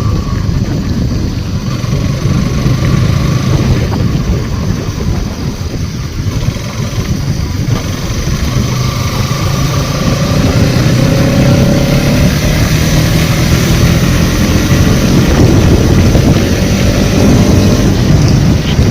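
Motorcycle engine running on the move, with wind rushing over the microphone. It eases off about six seconds in, then its pitch rises as it picks up speed again.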